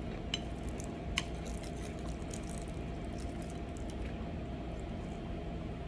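Faint wet clicks and smacks of someone chewing food, with a couple of sharper clicks near the start, over a steady low hum.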